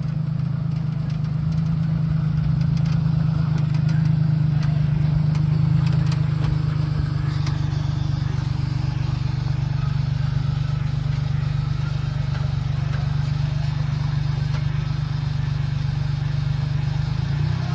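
Three-cylinder engine from an old Daihatsu Hijet, fitted in a homemade three-wheeler, running steadily with a low, even hum that gets a little louder a few seconds in.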